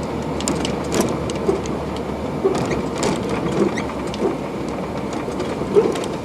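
Car road noise heard from inside the vehicle: a steady rumble with scattered light clicks and knocks.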